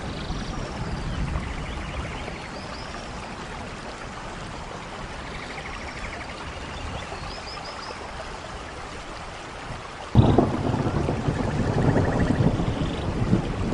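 Steady rain with a few faint high chirps. About ten seconds in, thunder breaks suddenly and rumbles on, louder than the rain.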